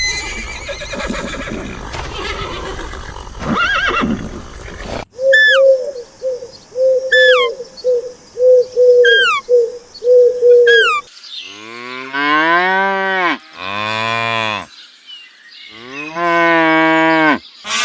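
A string of animal calls ending in cattle mooing. The first half holds unidentified calls: a noisy stretch, then a quick series of short calls with high downward chirps. About halfway through come three long, low moos.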